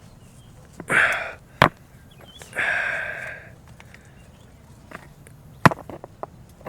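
A man sniffing and breathing out in short breathy bursts, with a few sharp clicks and snaps near the end.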